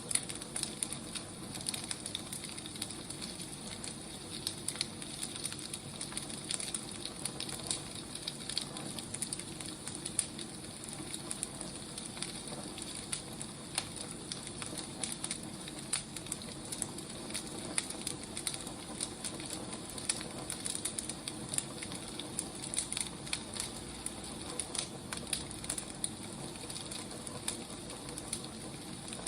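Firewood burning: a steady hiss with frequent small crackles and pops.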